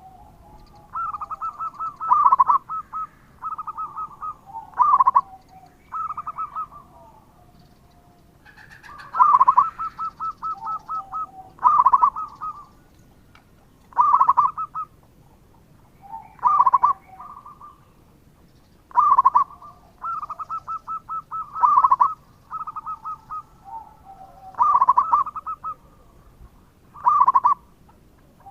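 Zebra dove (perkutut) cooing: phrases of quick staccato coos and loud drawn-out notes, repeating every two to three seconds.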